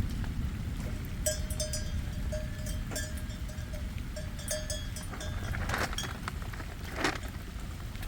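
Livestock bells clinking and ringing irregularly in short, bright notes over a steady low rumble, then two short, louder, noisier sounds near the end.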